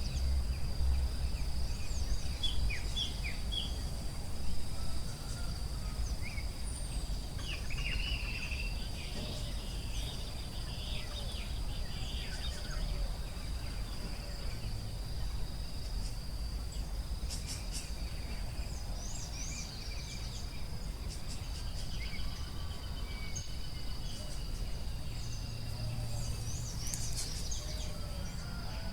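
Forest ambience: a continuous high, steady insect drone, with birds chirping on and off throughout and a low rumble underneath.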